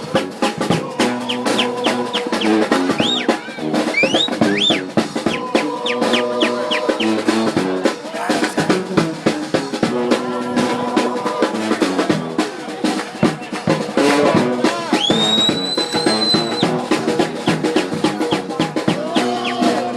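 Brass band playing with snare and bass drum: horns hold riffs over a dense drum beat, with high notes sliding up near the start and a longer high note past the middle.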